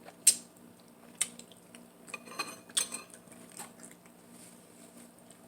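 Eating utensils clinking against a dish: a few sharp, separate clinks spaced irregularly.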